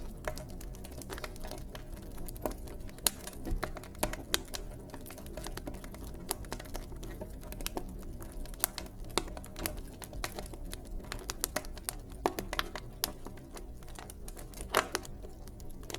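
Wood fire in a fireplace crackling: irregular sharp pops and snaps over a low, steady rush of the flames.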